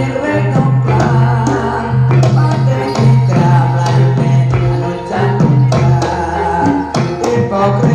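Live Javanese gamelan music accompanying a jathilan horse dance: quick, busy drum strokes over pitched metallophone notes, with a deep held low note that breaks off a few times, and a singing voice in places.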